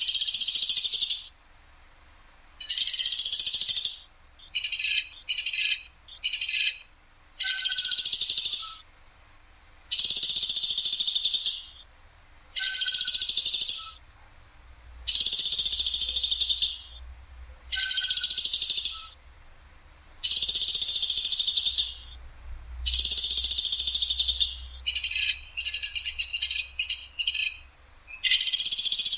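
Woodpecker calling in harsh, sharp, rapid rattling bursts of about a second each, repeated over and over with short pauses, some bursts shorter and clipped in quick clusters.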